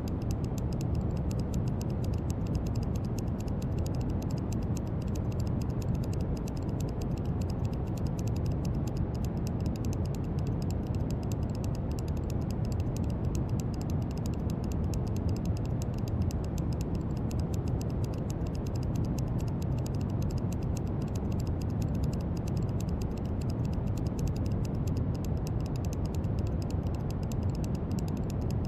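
Steady brown noise: a deep, even rushing hiss, strongest in the low end and without any change in level.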